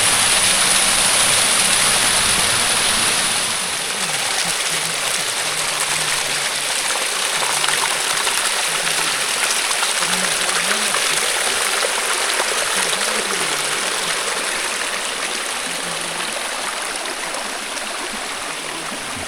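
Water of a small waterfall rushing steadily. It drops a little in level about four seconds in, then slowly fades.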